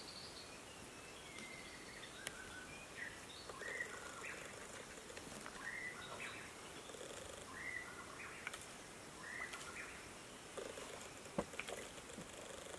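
Birds chirping in short, repeated calls over a faint steady background hiss, with a sharp tap a little before the end.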